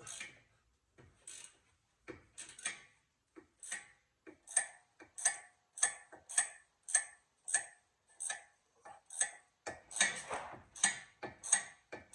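Socket ratchet clicking as it works the lower nut off a sway bar link, a regular run of sharp clicks about two a second that come quicker and busier near the end.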